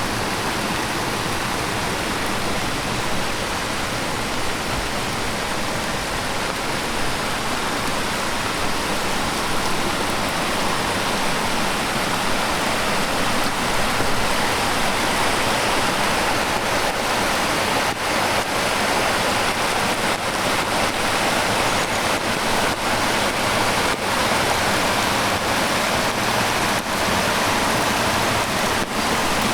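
Heavy rain with the steady rush of a swollen stream, growing a little louder about halfway through. Scattered sharp taps of nearby drops come through in the second half.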